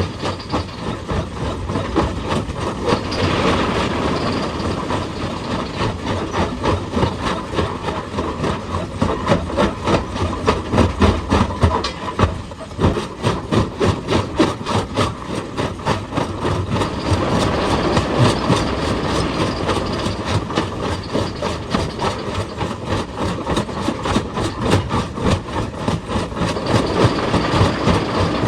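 Excavator-mounted hydraulic breaker hammering rock: a fast, steady run of blows with the machine's engine running underneath, and a brief pause about twelve seconds in.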